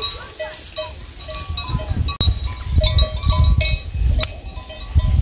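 Bells on livestock clanking irregularly, many short ringing notes, over a low rumble.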